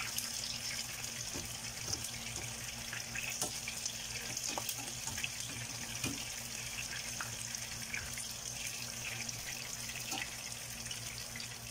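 Fish balls frying in oil in a small pan, a steady sizzle, with occasional light clicks of a metal skimmer turning them.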